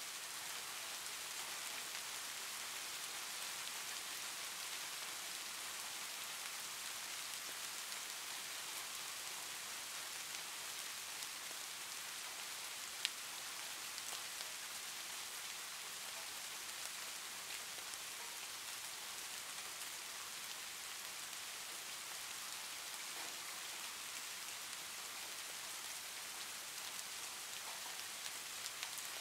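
Soft rain ambience: a steady, even hiss of falling rain, with one sharp tick about halfway through.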